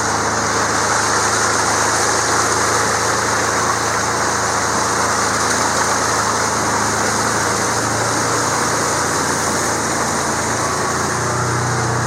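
Engine of a field-spraying rig running steadily at an even speed, with no change in pitch.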